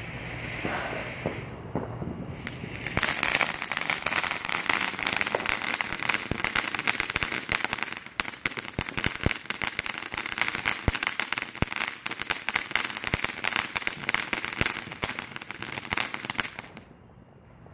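Backyard consumer fireworks: after a few seconds of softer hissing, a dense, rapid run of crackling pops sets in and goes on for about fourteen seconds, then cuts off suddenly.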